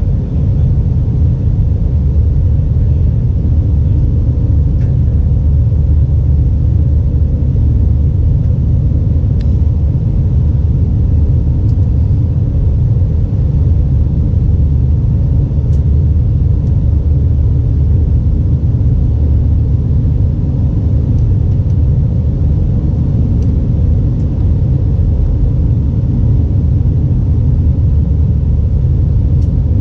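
Airbus A320 engine and airflow noise heard inside the cabin: a loud, steady low rumble that does not change.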